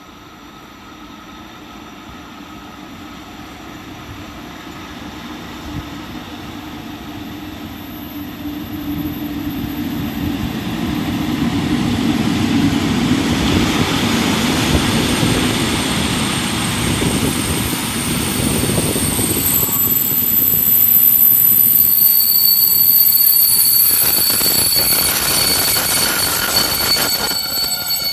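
A fast train hauled by a Ganz locomotive approaches and passes, growing steadily louder for about twenty seconds. In the last several seconds several high, steady whining tones ring out over the rumble of the wheels on the rails.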